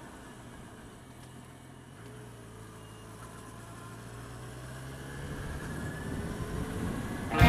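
A vehicle engine running steadily, growing gradually louder toward the end.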